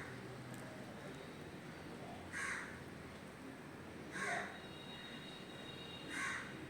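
A bird calling three times, about two seconds apart, each call short.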